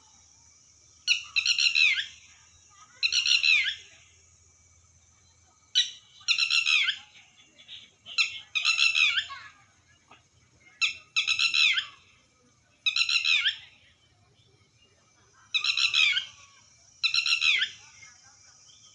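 Red-wattled lapwing calling: loud, harsh, falling notes in short phrases, often paired, repeated every second or two. A steady high hiss runs underneath.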